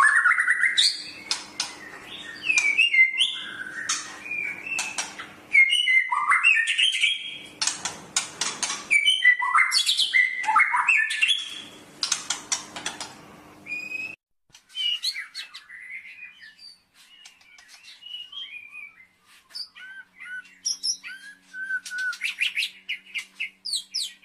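A songbird singing a fast, varied song of chirps, slurred whistles and rattling trills. About 14 seconds in the song cuts off abruptly, and quieter, sparser chirps follow.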